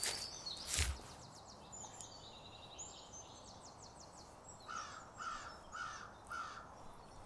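A crow cawing four times, harsh calls about half a second apart in the second half, with small songbirds chirping and trilling high before it. A single loud thump about a second in.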